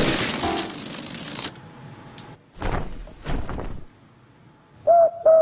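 Cartoon sound effects of air being pumped: a hiss, then two separate hissing strokes, then two short high squeaks near the end.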